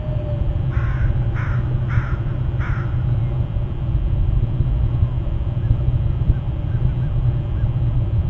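A bird giving four short calls, about two-thirds of a second apart, in the first three seconds, over a steady low rumble.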